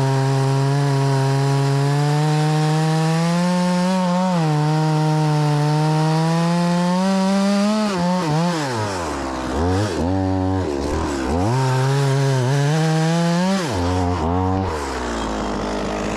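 Stihl MS 180 C-BE two-stroke chainsaw cutting through a log at steady high revs, the pitch slowly climbing over the first eight seconds. Then the revs dip and recover several times, and near the end the saw falls back toward idle; the bar is getting pinched in the cut.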